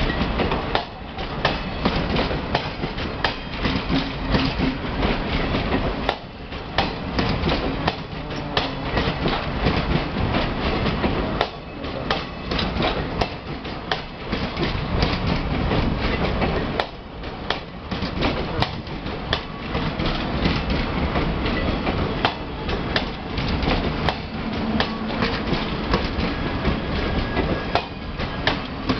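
Passenger train coaches rolling past at close range, their wheels knocking over rail joints in a continuous clatter over a steady rumble.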